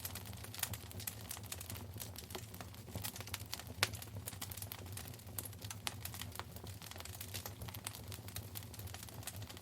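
Wood fire burning in a fireplace, crackling with many small irregular pops and one sharper pop a little under four seconds in, over a low steady rumble of the flames.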